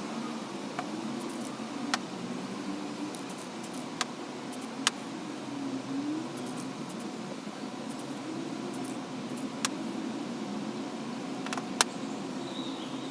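A steady low hum that wavers slightly in pitch, with a handful of short, sharp clicks scattered through it.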